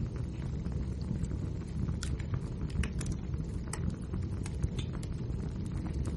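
Wood fire burning steadily with a low rumble, crackling and popping irregularly.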